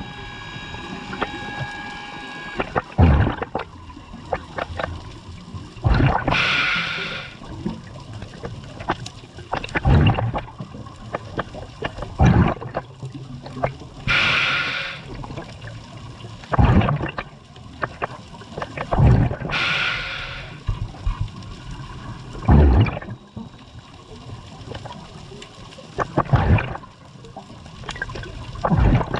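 Scuba diver breathing through a regulator underwater: a hiss on each inhale, four times about seven seconds apart, and bubbles gurgling and rumbling out on each exhale in between.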